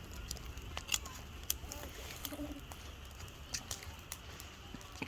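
Irregular sharp crackles and clicks, several a second, over a low steady rumble.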